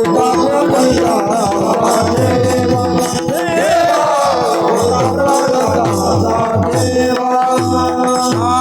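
Kirtan music: a pakhawaj-style mridang drummed in rapid, continuous strokes over steady held harmonium tones, with a voice singing a wavering line and small hand cymbals jingling.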